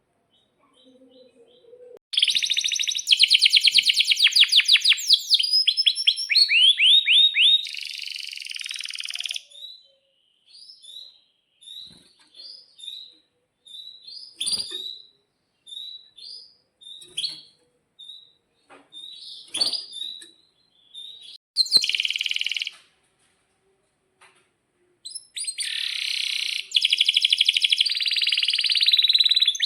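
Male domestic canary singing: fast rolling trills, then a stretch of short separate chirps, and rapid rolls again near the end.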